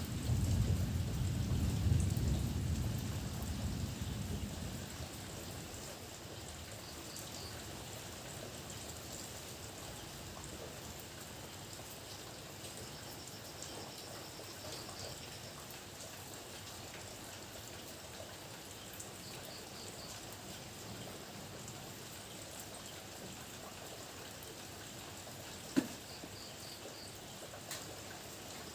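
Heavy rain falling steadily, with a low thunder rumble in the first few seconds that fades away. One sharp knock comes near the end.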